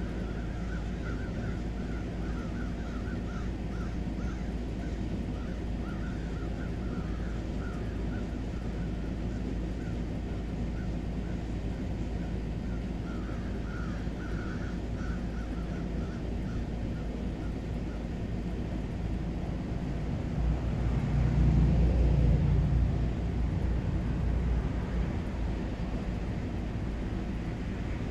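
Short animal calls, likely birds, repeating steadily for the first half, over a steady low outdoor hum. About two-thirds of the way in, a low rumble swells for a few seconds and fades.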